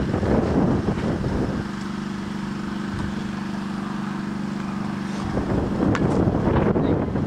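Wind buffeting the microphone, with a steady motor hum in the middle stretch that fades out after about five seconds.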